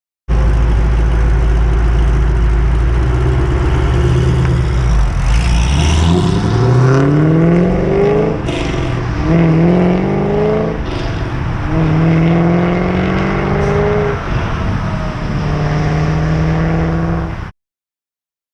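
2006 Pontiac GTO's LS2 V8 through Kooks headers and a Corsa cat-back exhaust, running steadily at first and then accelerating hard through the gears. The pitch rises three times, dropping sharply at each upshift, and settles into a steady cruise before cutting off suddenly near the end.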